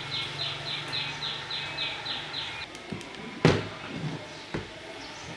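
Rapid high chirps, about three a second, that stop about halfway through; a single sharp knock follows a little later.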